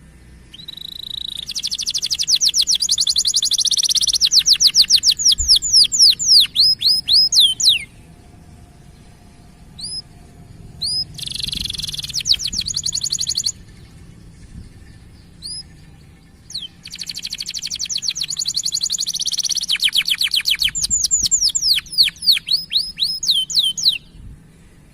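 Domestic canary singing: three long bursts of fast, high trills, each closing with a run of downward-sweeping notes, with a few single chirps in the gaps between.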